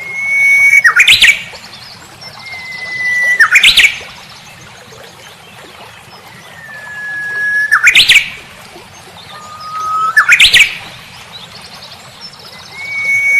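A songbird singing one phrase over and over, four times in full with a fifth starting near the end. Each phrase is a held whistle followed by a quick flourish of notes that sweeps sharply upward, with faint thin, high notes alongside.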